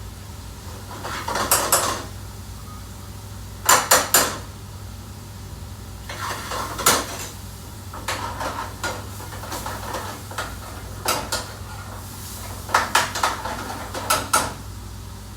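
Metal pots, pans and utensils clattering in a restaurant kitchen, in scattered knocks and quick clusters of two or three strikes, over a steady low hum.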